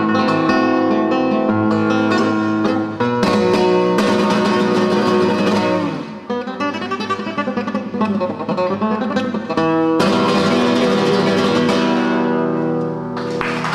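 Acoustic guitar playing the closing phrases of a solo piece: strummed chords with sharp attacks, ending in a last chord that rings and fades. Applause begins just at the end.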